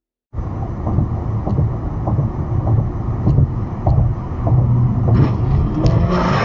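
Car driving: a steady low road-and-engine rumble that starts suddenly a moment in, with scattered small ticks and knocks.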